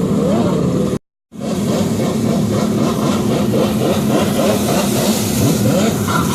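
Yamaha Superjet stand-up jet ski's 760 cc two-stroke engine running steadily. The sound cuts out completely for a moment about a second in.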